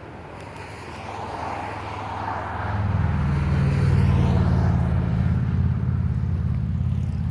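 A semi truck going by close: engine and tyre noise building for about three seconds, then a loud, steady, low diesel drone.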